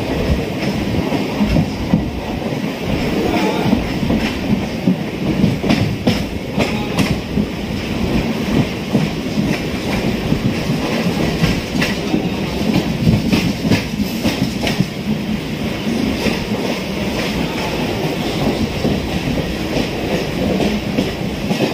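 Chennai suburban electric train running steadily, its wheels clacking now and then over rail joints.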